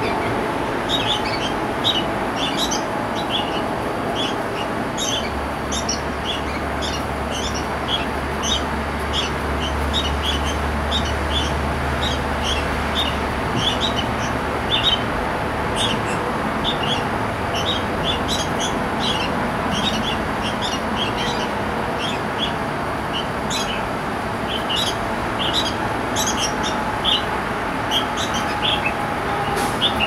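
Birds chirping rapidly and continuously in short, high notes, several a second, over a steady background rumble with a low hum in the first half.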